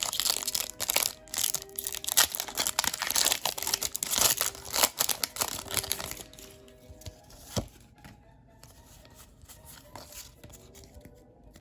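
Foil booster pack wrapper torn open and crinkled for about six seconds, then quieter handling of the pack and cards with a single sharp click partway through.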